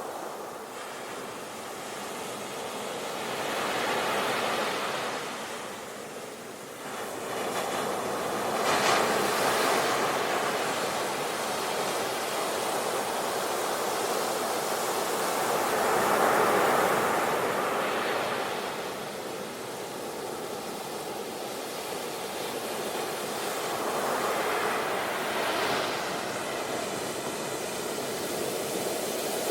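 Sea waves breaking on the shore, a steady wash of surf that swells and eases in surges several seconds apart, the loudest about halfway through.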